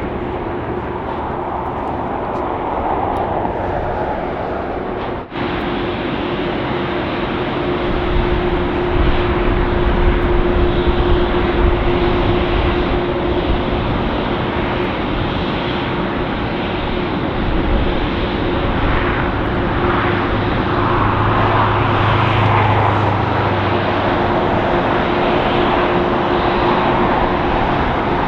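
Jet airliner engines running, a steady rushing noise with a constant hum, which grows louder with a deep rumble added about eight seconds in. There is a brief dropout about five seconds in.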